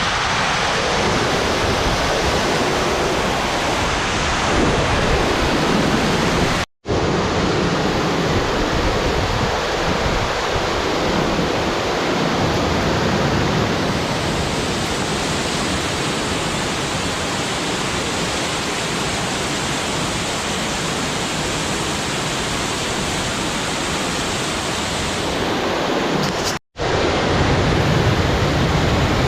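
Steady, loud rush of a large waterfall, its falling water a dense even roar that drops out for an instant twice.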